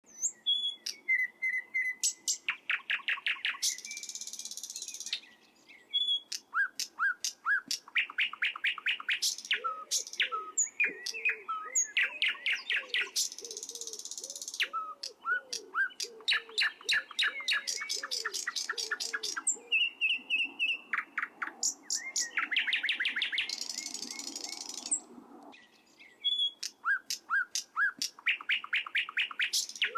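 Canary singing a long song of fast trills, repeated chirps and hissy rattling phrases, with brief pauses about five and twenty-five seconds in.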